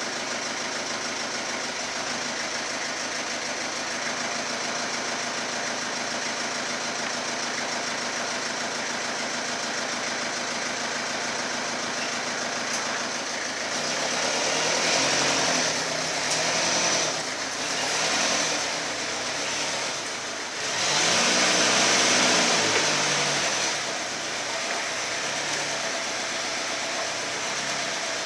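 Hyster H3 diesel forklift engine idling steadily, then revving up and back down several times from about halfway through, the longest and loudest rev near three quarters of the way, before settling back to idle.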